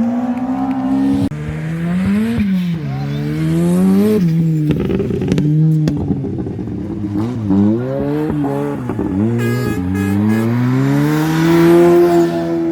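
Rally car engine at high revs, its pitch climbing and dropping again and again as it is driven hard through gear changes and lifts, ending in a long pull. There is a short rapid crackle about nine and a half seconds in.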